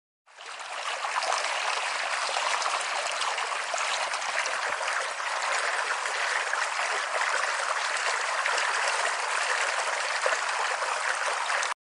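Running-water sound effect: a steady rushing, trickling noise like a stream. It fades in just after the start and cuts off suddenly near the end.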